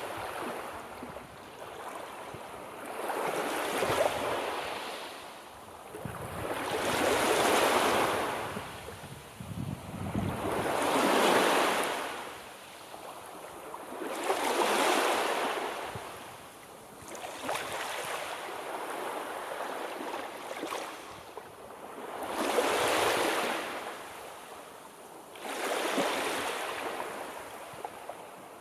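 Sea waves surging and receding in a slow, regular rhythm, each swell of rushing water rising and fading every three to four seconds.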